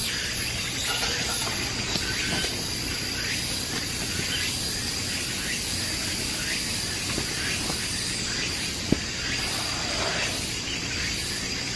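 Steady hissing noise under a continuous high insect drone, with one sharp click about nine seconds in.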